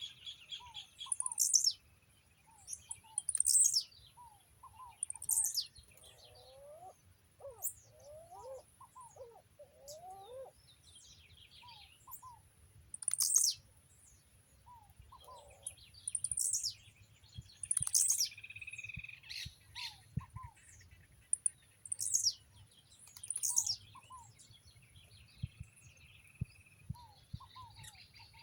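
Several birds calling. Sharp, very high calls, each falling in pitch, come every second or two, over softer lower paired notes and a few whistles. A thin, steady high-pitched tone runs underneath.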